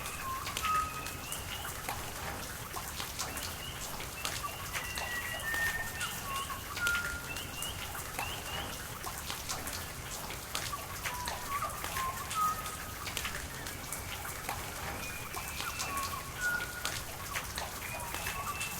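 Rain falling as a steady hiss, with the sharp taps of single drops and many short, high chirp-like tones, some rising in pitch, scattered throughout.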